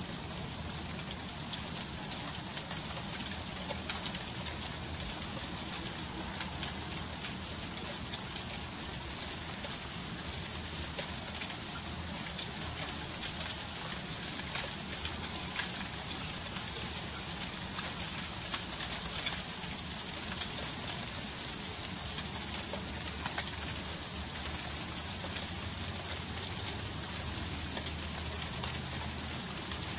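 Freezing rain falling steadily: a dense, even hiss of drops with many small sharp ticks as they strike.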